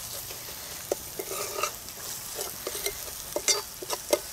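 Steel ladle scraping and clicking against a metal pot while chopped onions, curry leaves and ginger-garlic paste fry in oil with a steady sizzle. The paste is being fried until its raw smell is gone.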